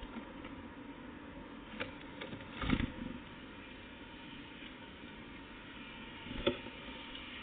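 A few short knocks and taps over a steady low hum: a small cluster of taps ending in a dull thud about two to three seconds in, and one more sharp knock near the end.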